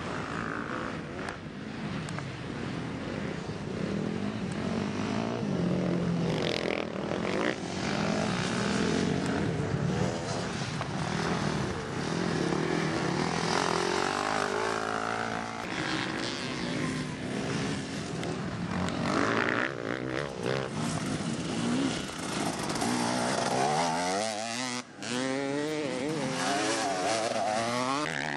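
Several racing dirt bike engines revving hard, their pitch rising and falling as riders work the throttle and shift.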